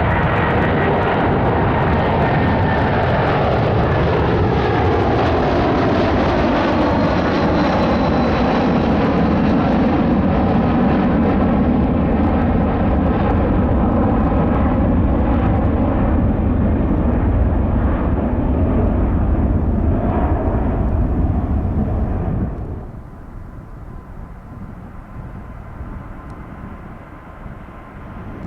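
Jet airliner engines at takeoff power passing by, a loud rushing noise with whining tones that glide down in pitch. About 22 seconds in the sound drops suddenly to a much quieter distant rumble.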